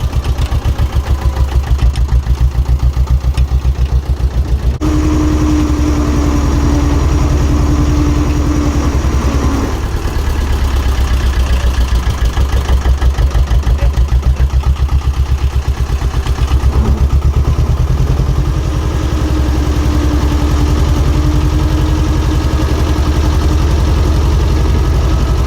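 Diesel engine of compact earthmoving plant running with a pulsing low beat. About five seconds in the sound suddenly becomes fuller and a steady tone joins it for a few seconds. The tone comes back near the end.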